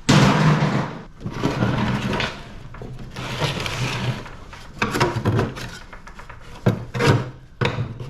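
Metal parts of an air-conditioning unit being worked apart by hand: a series of scraping, rattling bursts, then several short sharp knocks.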